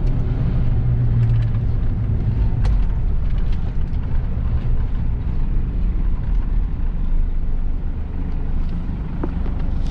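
Mitsubishi Pajero's 4D56 2.5-litre turbo-diesel four-cylinder running steadily under way, with a low engine and road rumble. The engine is freshly rebuilt and still being run in.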